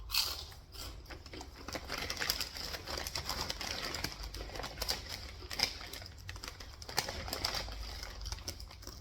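Close-up crunching of chips being chewed: a dense, irregular run of crisp crackles and clicks.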